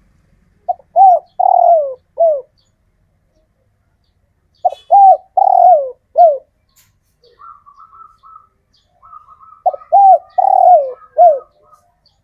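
Male spotted dove cooing: three phrases about four seconds apart, each a short note followed by three coos that swing up and fall, the third held longest.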